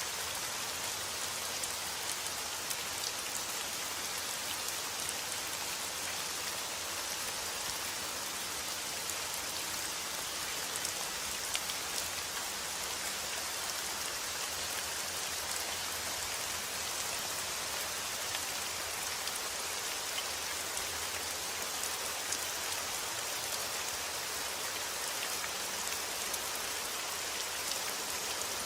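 Steady rain falling on a surface, a constant hiss with many fine drop ticks and small, irregular drop sounds.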